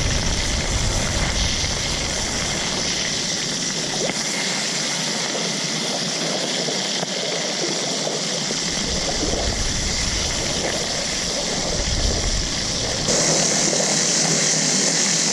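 Steady rushing noise like running water, with low rumbles coming and going. It gets louder and brighter near the end.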